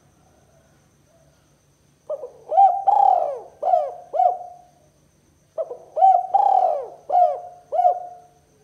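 Spotted dove (tekukur) cooing: two phrases of about five arched coo notes each, the second following the first after a short pause.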